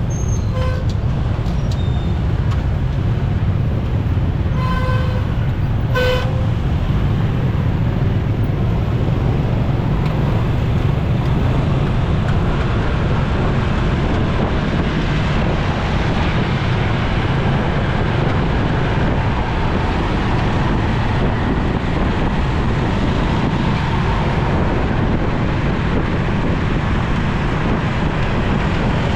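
Steady rumble of wind and road noise while riding a motorcycle in city traffic, with three short vehicle horn toots in the first six seconds.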